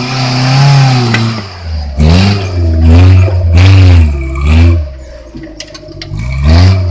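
Suzuki Jimny's engine revving in repeated bursts, pitch rising and falling, as the vehicle climbs a steep dirt bank under load, with a quieter lull shortly before the end.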